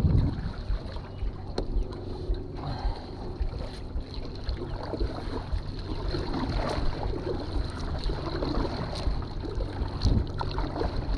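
Wind buffeting the microphone over water splashing and lapping around a small paddled boat on a river, with a few light knocks.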